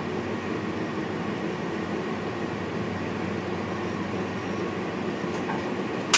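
Steady running noise inside the driver's cab of an NS VIRM double-deck electric train, with a faint hum of held tones. A single sharp click at the very end.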